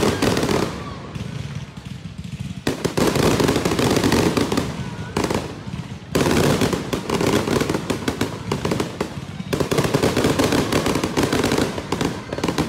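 Fireworks display going off in repeated barrages of many rapid pops and bangs, a new volley starting about every three seconds and fading before the next.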